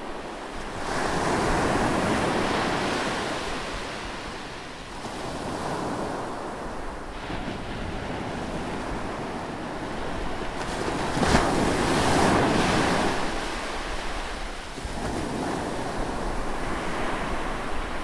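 Ocean waves breaking and washing over shoreline boulders. The surf comes in repeated swells, loudest about eleven seconds in, where a wave hits the rocks with a sharp slap of spray.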